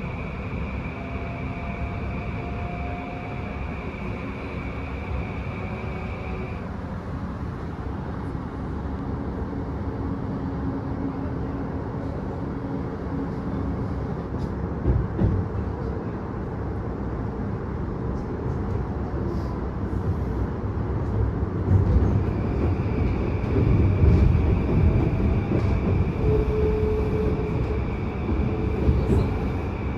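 Inside a Yokosuka Line electric commuter train as it runs along the rails: a steady rumble of wheels and running gear that grows louder in the second half, with a few short knocks. A high steady tone drops out about six seconds in and comes back after about twenty-two seconds.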